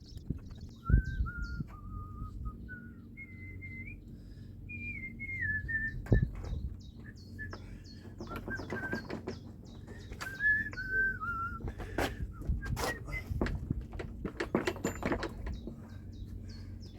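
A person whistling a wandering tune in held, sliding notes, over sharp knocks and clanks of hand tools on the engine, the loudest about a second in and again about six seconds in. Small birds chirp in quick repeated notes in the background.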